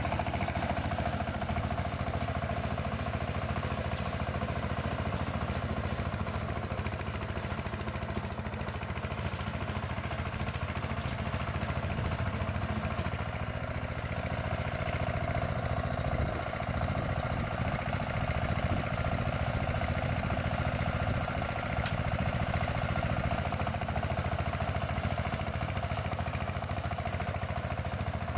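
Mini rotary tiller's engine running steadily with a fast, even clatter.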